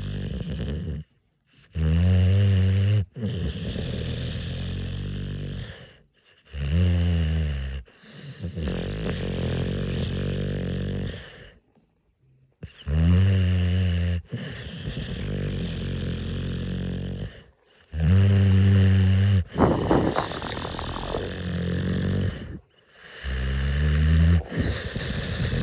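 A sleeping dog snoring in a slow, even rhythm: a loud, low-pitched snore about a second and a half long, then a longer, softer breathy stretch, repeating five times about every five seconds.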